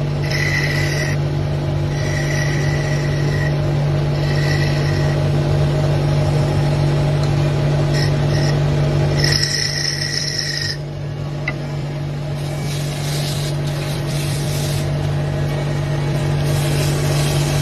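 A machine running with a steady low hum, with short high-pitched whines coming and going during the first half.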